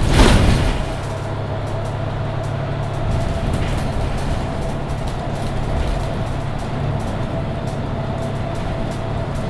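Mercedes-Benz Citaro C2 Hybrid city bus running on the move: a steady low drone with a thin steady whine above it. A short loud rush of noise comes right at the start.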